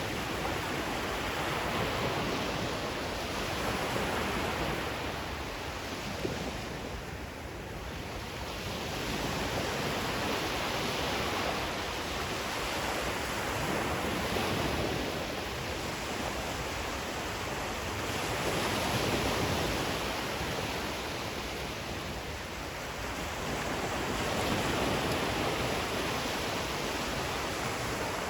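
Ocean waves washing in, a steady hiss of surf that swells and ebbs every few seconds.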